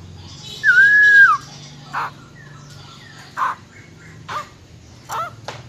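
Female black-throated laughingthrush (khướu bạc má) calling: one loud held whistled note about a second in, then a run of short sharp call notes about once a second. This is the female's 'ro ro' call, used to rouse males into singing.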